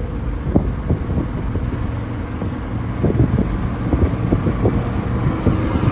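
Limousine's engine and road noise rumbling steadily inside the moving car's cabin, with scattered light knocks and rattles, busiest from about three seconds in.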